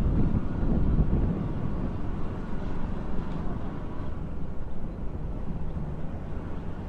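Motorcycle on the move, its engine and road noise blending into a steady low rumble with wind on the microphone. The rumble is a little louder in the first couple of seconds, then eases.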